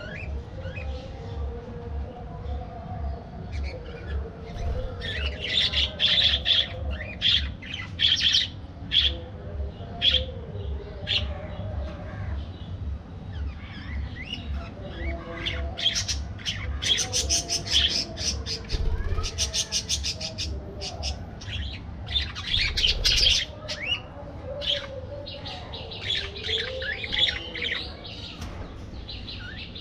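A flock of budgerigars chattering: many overlapping chirps, squawks and rapid trills, busiest and loudest around the middle.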